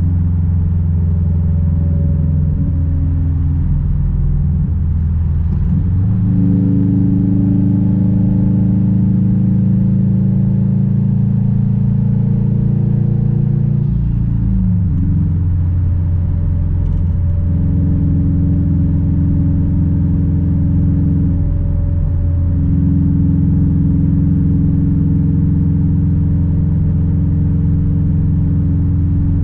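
Straight-piped Subaru WRX STI turbocharged flat-four exhaust droning under way, a deep, loud, steady note. The engine note steps up about six seconds in, drops about fifteen seconds in, then holds steady.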